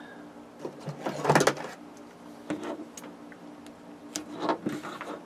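Adhesive tape being pulled off its roll in several short rasping rips, the longest about a second in, as it is wrapped around a camera cable connection.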